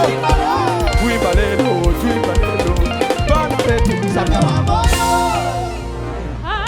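Live church band playing upbeat African-style praise music without vocals: drum kit keeping a driving beat under pitched instrument lines. About five seconds in, the drums drop out under a held chord, and a quick rising sweep comes just before the end.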